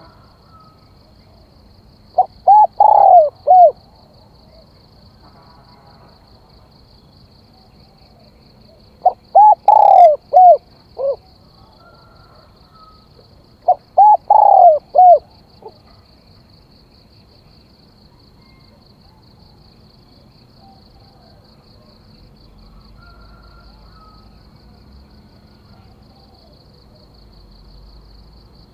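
Spotted dove cooing: three short phrases of several cooing notes each, about six seconds apart, all in the first half. This is the male's crowing song, the call used to stir up decoy and rival doves.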